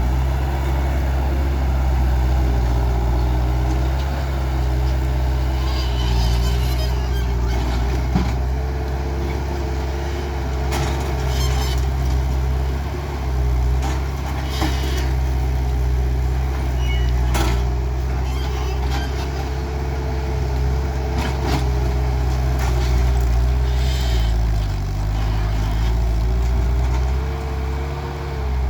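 Skid steer loader engine running steadily under work, with scattered sharp clanks and knocks. Its note dips briefly about twenty-five seconds in.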